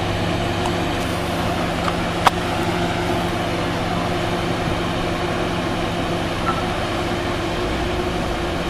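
GE P32 Genesis diesel locomotive running steadily at the platform before departure, a constant low drone with a steady hum. A single sharp click about two seconds in.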